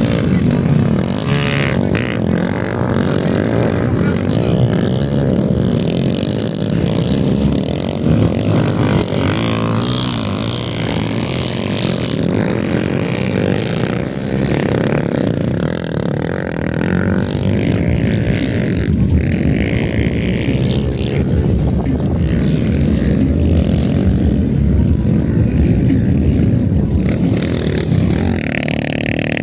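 Motocross bikes running on the track, their engines rising and falling in pitch as they rev.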